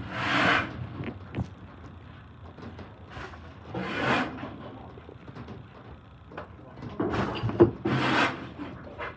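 Scraping and rubbing as garbage and debris are cleared out from behind a garbage truck's packer blade: three long scrapes, one right at the start, one about four seconds in and one near the end, with faint knocks between them.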